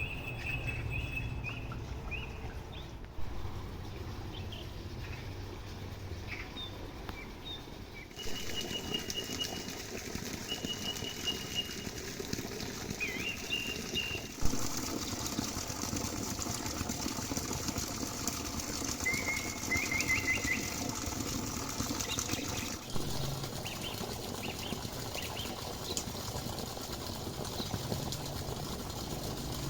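Small birds chirping in short, high calls over a steady rustling noise, which changes abruptly a few times.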